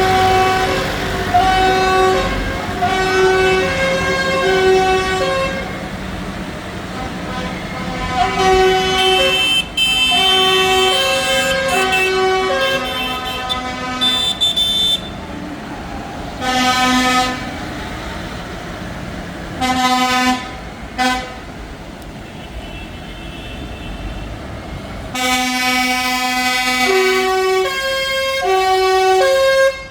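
Vehicle horns on tractors in a passing tractor run, sounding a string of held notes at changing pitches, like a horn tune, with pauses between bursts. Engines rumble underneath.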